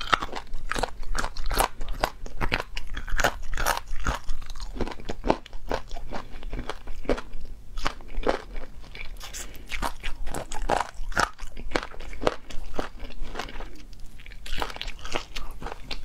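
Close-miked chewing of spicy chicken feet, the small bones crunched along with the skin and meat: a dense, irregular run of crunches and clicks.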